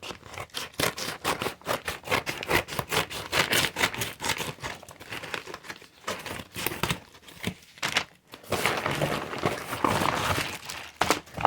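Packaging crinkling and rustling as a package is handled and opened by hand, in many quick, irregular crackles.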